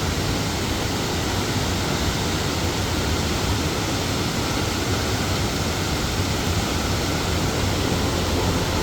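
Steady rushing water: a river or waterfall in a gorge, a continuous even roar without breaks.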